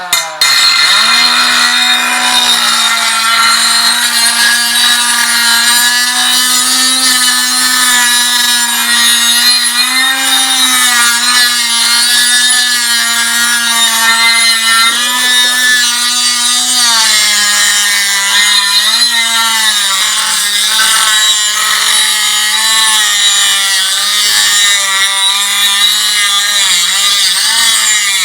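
Angle grinder with a cut-off wheel running and cutting through metal, a steady whine with a hiss. The motor's pitch sags a few times as the wheel bites under load.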